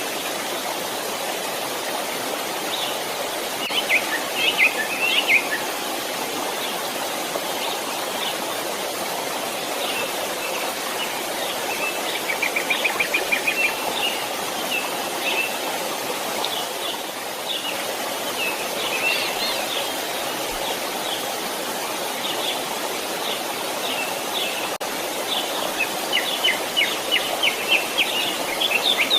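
Stream water running steadily, with small birds chirping and trilling over it in several bouts, the busiest near the start and near the end.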